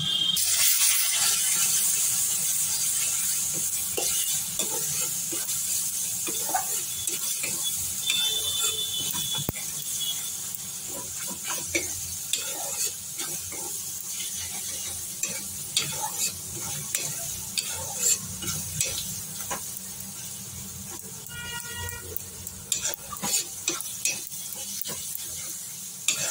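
Masala of ground spices, onion and tomato sizzling in hot oil in a kadai while a metal spatula stirs and scrapes it, with scattered clicks of the spatula against the pan. The sizzle starts abruptly as the stirring begins and slowly dies down.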